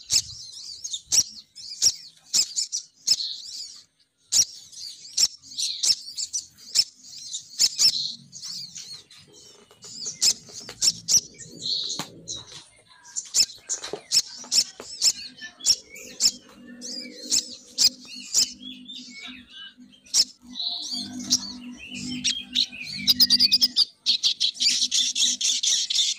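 Female crested jay (sogon) lure call: repeated sharp chattering notes and clicks, breaking into a dense, rapid rattling chatter near the end. A faint low hum runs under the middle part.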